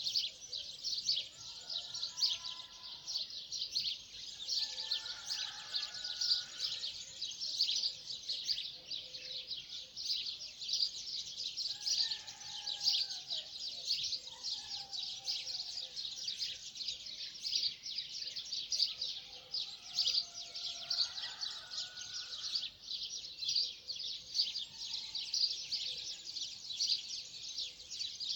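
Dense chorus of many small birds chirping and chattering without a break, with a few lower, longer calls coming through now and then.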